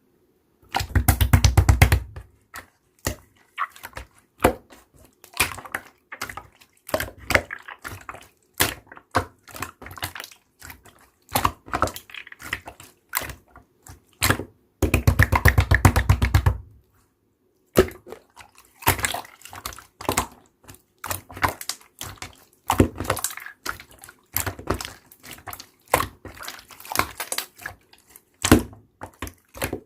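Slime being pressed, poked and stretched by hand: rapid sticky clicks and little pops, with two louder, longer squishing bursts, one about a second in and one about halfway through.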